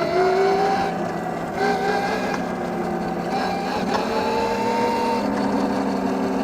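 Electric pit bike's mid-drive motor whining under way, its pitch rising as it speeds up, dipping briefly about a second in, then climbing again and holding steady near the end, over wind and tyre noise.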